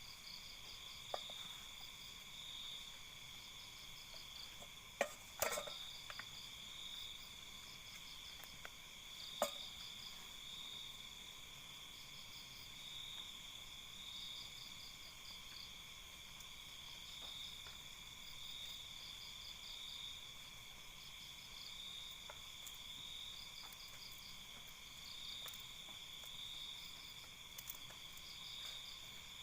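Night insect chorus of crickets: several steady high-pitched trills, one of them pulsing. A few sharp clicks or knocks come about five and nine seconds in.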